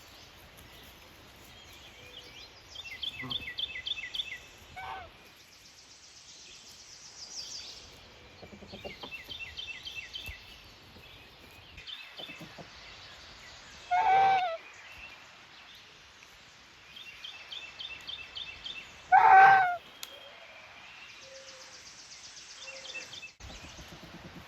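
Two loud goose honks, about five seconds apart, over a small songbird repeating short, high trilled phrases every few seconds.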